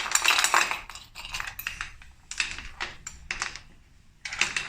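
Small beach pebbles being dropped and placed into a pot, clattering and clinking against each other in several short rattling bursts, with a brief pause before the last one.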